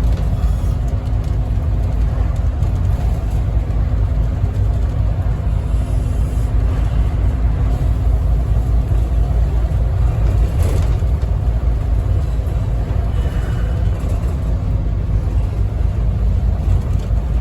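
Cabin noise aboard a 2008 Scania N270UD OmniCity double-decker bus on the move: the diesel engine's steady drone and road rumble. There is one brief knock about ten seconds in.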